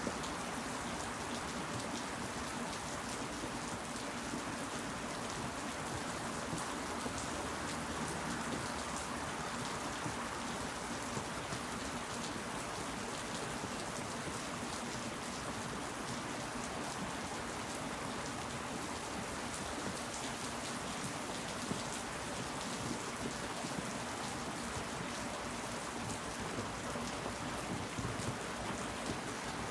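Steady rain falling: an even hiss of many drops, with fine individual drop ticks throughout.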